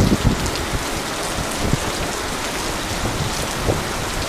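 Very heavy rain pouring steadily. There are a few low thumps near the start.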